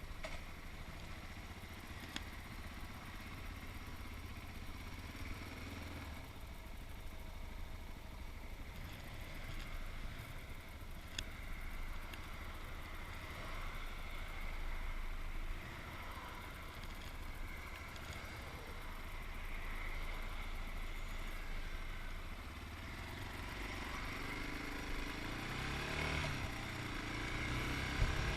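Yamaha MT-03's 660cc single-cylinder engine running at low revs, with the revs rising and the sound growing louder over the last few seconds.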